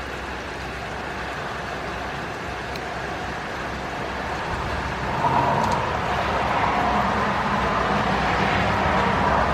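Car running, with an even hum of engine and road noise that gets louder about halfway through.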